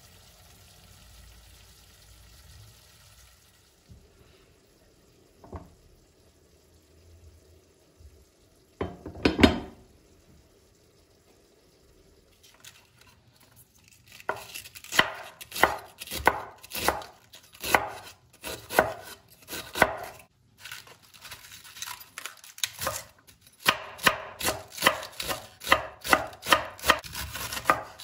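Knife chopping food on a cutting board: a quiet start with one loud knock, then from about halfway a steady run of strokes, about two a second, with a brief pause.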